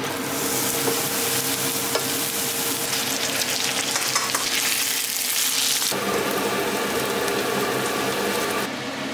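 Chopped onion and then raw rice sizzling as they fry in oil in a nonstick pan, stirred with a wooden spoon. The sizzle changes abruptly about six seconds in.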